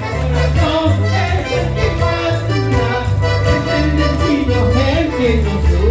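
Latin American band music: an instrumental passage between sung lines, a melody wandering over a stepping bass line.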